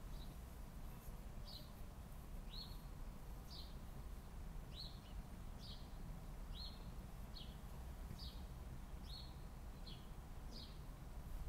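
A small bird chirping over and over: about a dozen short, high chirps, each dropping quickly in pitch, coming roughly once a second.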